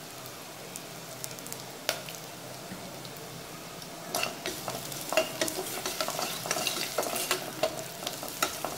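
Shallots, garlic, dried red chillies and curry leaves sizzling gently in hot oil in a pressure cooker as a tempering. About four seconds in, a spoon starts stirring them, clicking and scraping against the pot.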